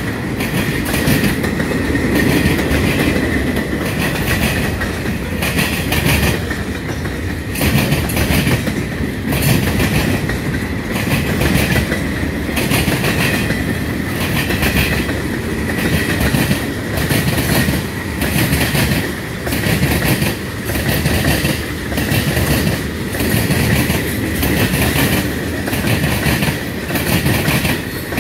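Freight train cars (boxcars, then tank cars) rolling past close by, the wheels clicking rhythmically over the rail joints about once a second over a steady rumble. A thin, steady high tone runs underneath.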